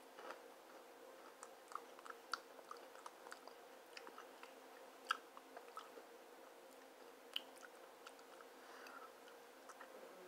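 Faint crunching of a ridged potato chip being chewed, small crisp clicks at an irregular pace, over a faint steady hum.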